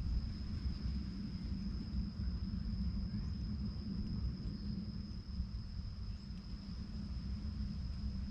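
Steady low wind rumble on the microphone, with a continuous high-pitched insect drone, like a cricket or cicada, held on one note.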